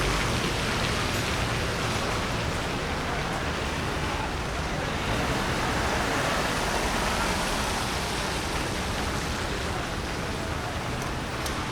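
Steady rain falling on a city street, with the hiss of traffic on wet pavement.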